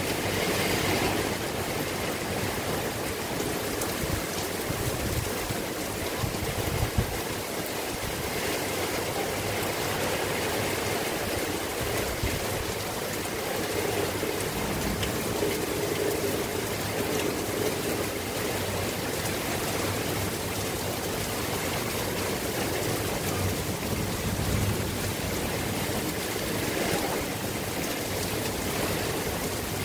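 Steady rain falling, a continuous even hiss with water running, and a brief low thump about seven seconds in.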